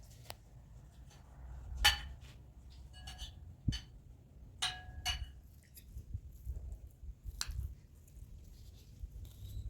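Dishes and cutlery clinking: about seven separate sharp clinks, a few of them ringing briefly, the loudest about two seconds in.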